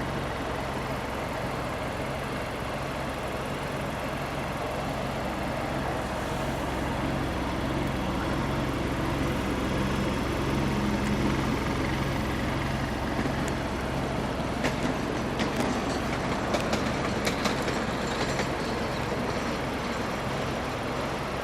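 A 2013 Nissan Juke Nismo's 1.6-litre turbocharged four-cylinder engine idling with a steady low hum. Near the end, a series of sharp clicks and knocks sounds over it.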